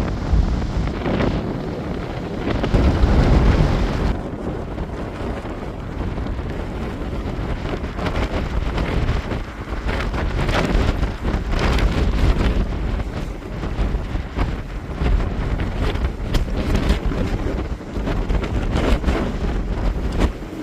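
Strong wind buffeting the microphone, a heavy low rumble that rises and falls, with short crackles breaking in over it from about halfway through.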